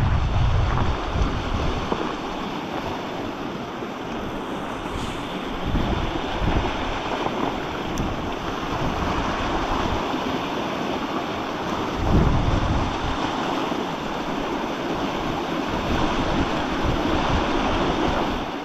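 River water rushing steadily, with wind buffeting the microphone in low gusts at the start and again about twelve seconds in.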